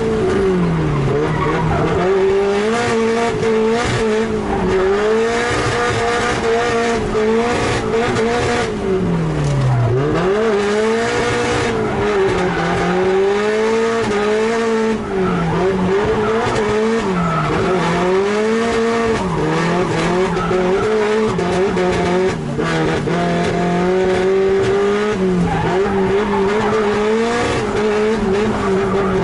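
Nissan S13's engine heard from inside the cabin during a drift run, the revs rising and falling every few seconds, with tyres squealing and skidding.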